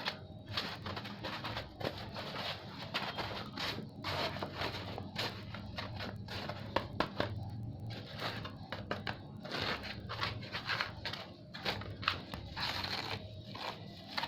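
Tissue paper crinkling and rustling in irregular crackly bursts as it is handled and pressed onto a balloon.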